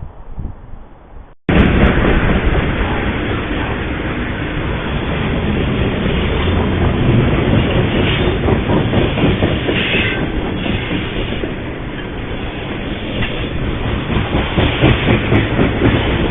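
A train passing close by on the track: a loud, steady rumble of wheels on the rails that starts abruptly about a second and a half in. Near the end the wheels clatter rhythmically over rail joints.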